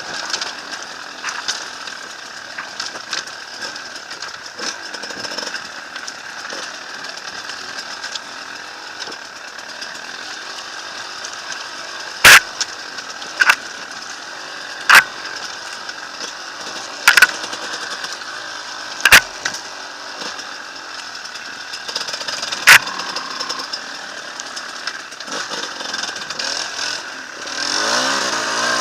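Enduro motorcycle engine running steadily, picking up louder near the end. Six sharp knocks cut through it in the middle of the stretch.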